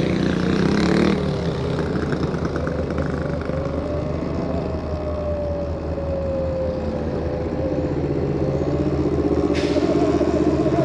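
Electric bike motor whining while riding, its pitch sliding slowly down and back up with speed, over a steady low rumble of wind and road. A single sharp click comes near the end.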